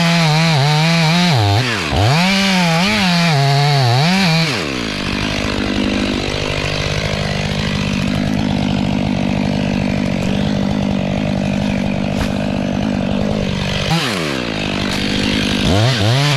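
Chainsaw revved up and down several times, then held at a steady pitch for about nine seconds while it cuts a deep notch into a leaning log, then revved again near the end.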